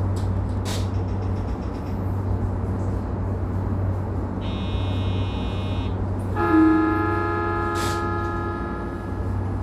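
Steady low hum of a stopped electric commuter train, then a high buzzer tone for about a second and a half, followed by a horn sounded for about two and a half seconds, loudest as it starts.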